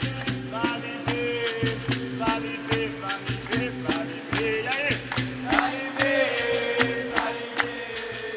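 Live capoeira roda music: a steady rhythm of sharp rattling and percussion strokes under stepping pitched instrument notes, with singing voices.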